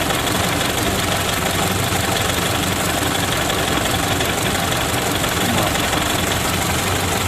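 Ford Model A's four-cylinder flathead engine idling steadily at a lowered idle speed.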